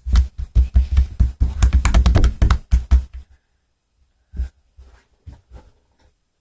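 Homemade slime being squeezed and kneaded by hand, giving a quick run of wet clicks and pops for about three seconds, then a few scattered pops.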